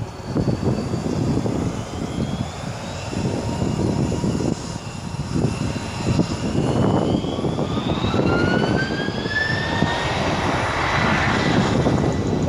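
Twin jet engines of a China Airlines Airbus A330-300 spooling up during a rolling takeoff: a deep, uneven rumble, with a whine that rises in pitch from about halfway through.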